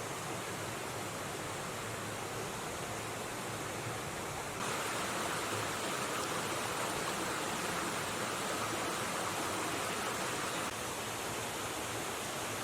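River water rushing steadily. It turns louder and brighter about four and a half seconds in, then drops back near the end.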